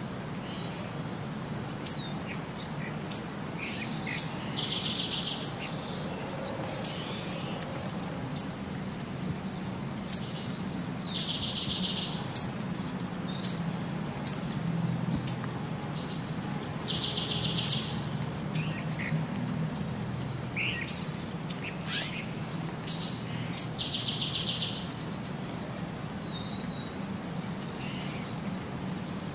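Birdsong: short, sharp high chirps, with a buzzy call that recurs about every six seconds, over a steady low hum.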